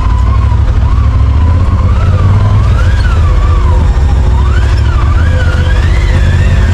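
Side-by-side UTV running along an off-road trail, a heavy steady low rumble. A thin wavering tone slides up and down above it.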